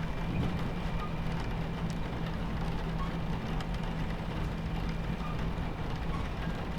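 Steady rumble of a train running on its tracks, heard from inside the carriage, with a low hum and rain hitting the window in faint scattered ticks.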